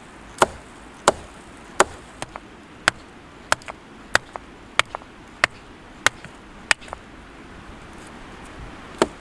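Sharp chopping strikes of a blade splitting hard cherry driftwood for firewood, evenly paced at about one and a half a second. After a short pause there is one last strike near the end.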